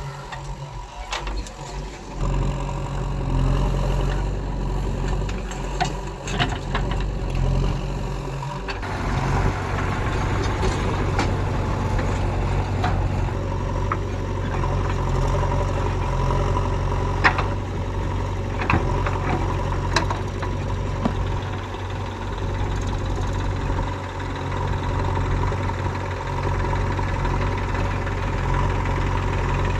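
Heavy diesel engine running steadily at a low, even note that firms up about a third of the way in, with a few sharp knocks over it past the halfway point.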